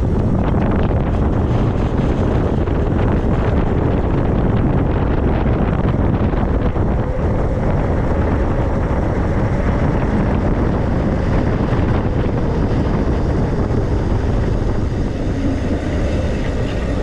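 Steady wind noise buffeting the microphone of a camera on a moving e-bike, a loud low rushing that barely changes.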